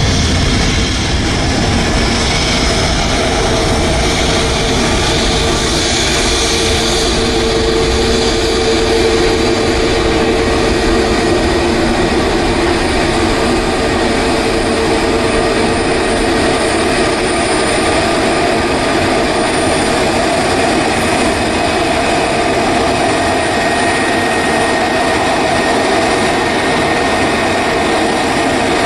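Jet airliner engines running steadily: a loud, continuous rush of noise with a droning tone that is strongest in the first half and a faint high whine that appears later.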